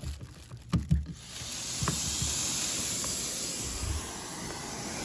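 Stretch-hose cuff knocking into a central vacuum wall inlet valve, then, about a second in, a steady hiss of air being sucked in through the hose and inlet as the central vacuum runs. The fit at the inlet is not airtight.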